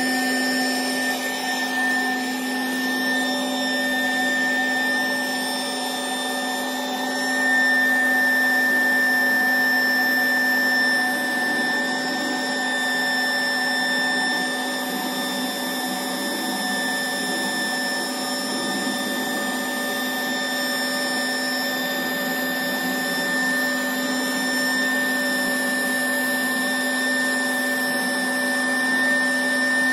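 Electric air pump running steadily, a constant hum with a high whine above it, as it inflates an inflatable boat's tubes through a 3-metre hose.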